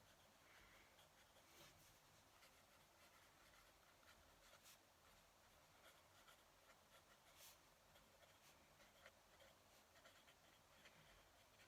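Fountain pen nib scratching faintly across paper in short irregular strokes, with a few brief soft ticks.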